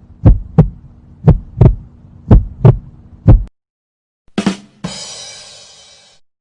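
Heartbeat sound effect: low paired lub-dub thumps about once a second, over a faint hum, stopping about three and a half seconds in. It is followed by a short knock and a hissing crash that fades out over about a second and a half.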